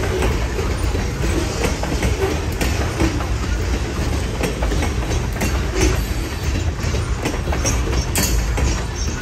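Freight train of covered hopper cars rolling past close by: a steady rumble of steel wheels on rail with irregular clicks as wheels cross rail joints. A short high-pitched screech comes near the end.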